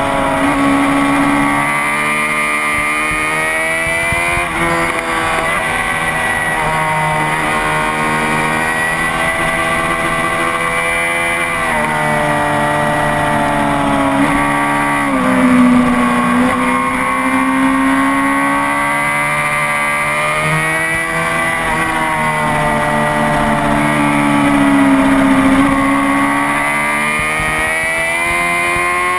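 Honda CBR600RR inline-four sport-bike engine at speed on a racetrack, heard onboard, its pitch climbing and dropping over and over through gear changes and corners, over steady wind rush.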